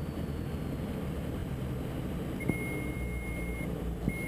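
Diamond DA42 NG Twin Star cockpit with the steady low drone of its twin engines and propellers. A steady high-pitched cockpit warning tone sounds for about a second about halfway through, then starts again near the end, each time opening with a click.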